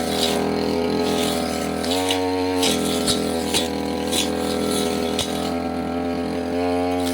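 Brush cutter's small engine running at high speed, pitch swelling briefly about two seconds in and again near the end as the throttle is opened, with scattered sharp ticks as the blade strikes brush.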